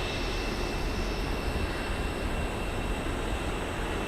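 Steady airport apron noise: a continuous engine rumble with a thin, steady high whine over it.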